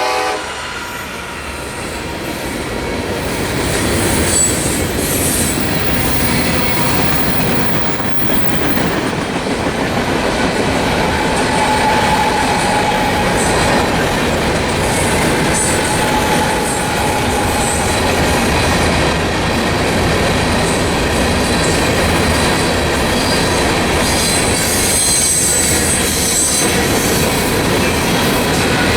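Freight train rolling past close by, a steady rumble of wheels on rail with faint wheel squeal, just after the locomotive's horn cuts off at the very start.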